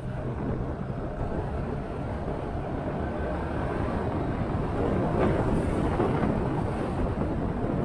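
Motorcycle riding at speed: the engine running under a steady rush of wind buffeting the microphone, a little louder from about halfway through.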